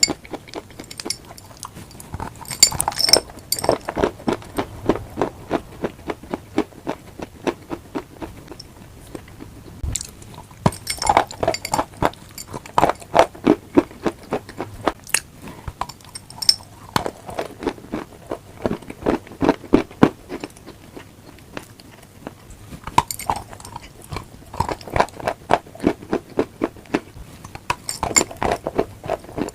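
Close-miked crunchy eating: a sharp crackling bite every several seconds, each followed by a run of rhythmic chewing crunches.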